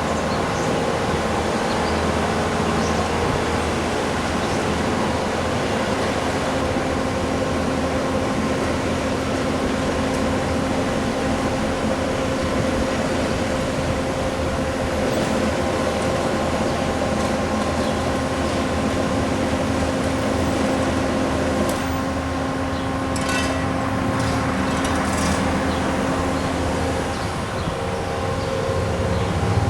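Bobcat skid steer loaders working a road-milling and sweeping job: a steady diesel engine drone with a hum that holds its pitch. There are a few short rattles about three-quarters of the way through, and the sound grows louder near the end.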